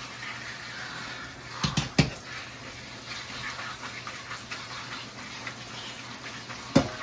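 Kitchen sink work while washing salad greens: a steady hiss with a few sharp knocks, two close together about two seconds in and a louder one near the end.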